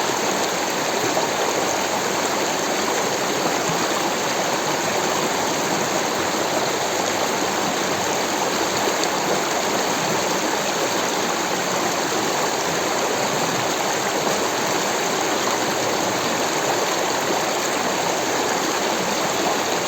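Rushing water of a stream, a steady even flow.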